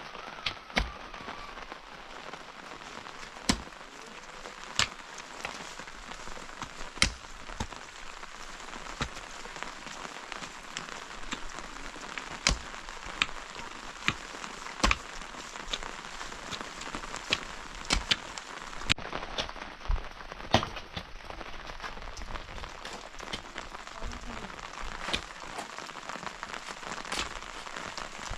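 Heavy rain falling steadily, with louder single drops landing close by at irregular moments, about one a second.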